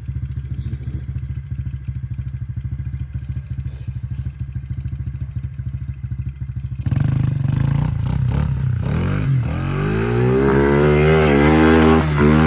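Pit bike's small Chinese-made single-cylinder engine idling with an even putter, then about seven seconds in it is opened up suddenly and revs hard, its pitch climbing and dipping as the bike accelerates.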